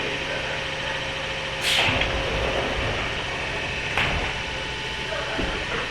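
Interior sound of a JR 103-series electric commuter car (motor car MoHa 102): a steady rumble, with a short loud hiss about two seconds in, after which the low rumble gets louder, and a sharp knock about four seconds in.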